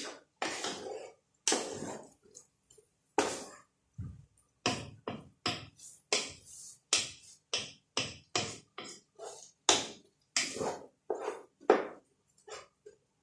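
Metal cooking utensil knocking and scraping against a pan while vegetables are stirred, in a run of short, sharp, irregular strikes about two to three a second.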